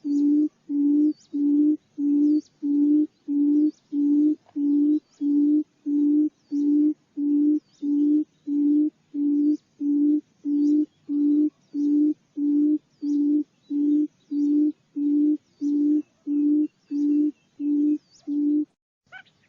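Barred buttonquail's low booming hoot, one short note repeated about twice a second in an even series. It stops just under a second before the end. This is the recorded call played to lure buttonquails.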